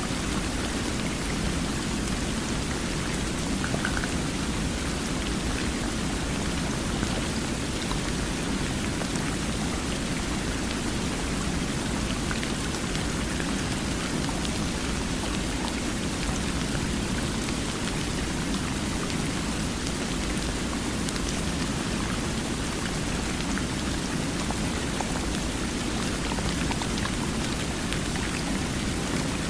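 Steady, even rush of water, unchanging throughout, with a fuller low wash and a fainter hiss above it.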